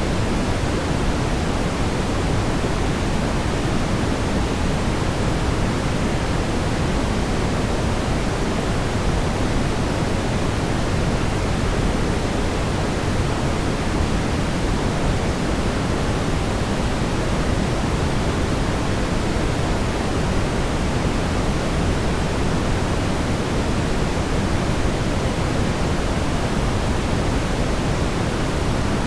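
Steady brown noise: an even, unchanging deep rumbling hiss, strongest in the low end and fading toward the treble.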